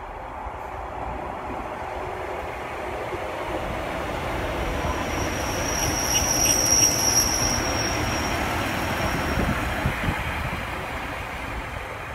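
Two-car Pacer diesel multiple unit running past on curved track. Its rumble builds to a peak about halfway through, with a high wheel squeal from the curve over the middle few seconds.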